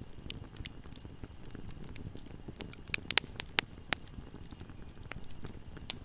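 Campfire burning with a steady low rumble and scattered sharp crackles and pops, a quick run of louder pops about halfway through.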